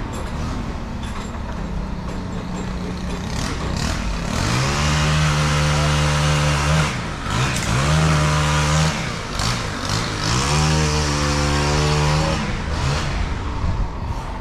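An engine revving up, holding high and dropping back three times, over a steady background of machinery noise.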